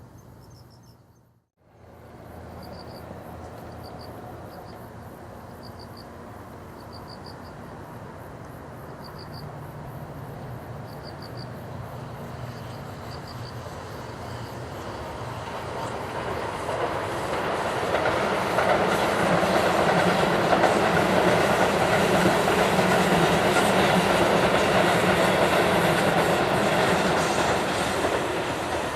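Keihan Railway electric train approaching and running past, growing louder to a peak over the last third and easing slightly at the end. Insects chirp in short pulses during the first half.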